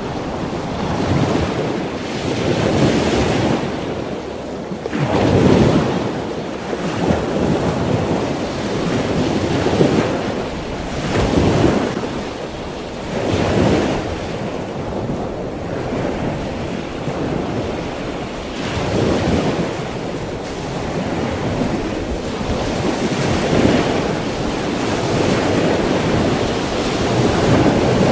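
Ocean waves washing in and breaking, a steady rushing surf that swells and eases every few seconds.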